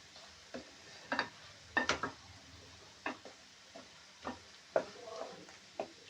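A spoon stirring food in a cooking pot, knocking and scraping against the metal about a dozen times at irregular intervals.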